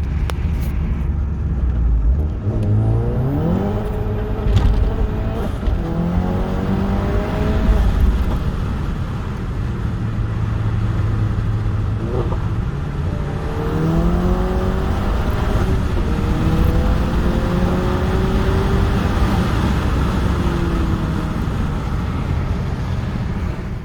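Turbocharged 2.0 TSI four-cylinder engine of a Stage 2 tuned Seat Leon Cupra accelerating hard, its pitch rising in several pulls broken by gear changes, with a few sharp cracks from the exhaust.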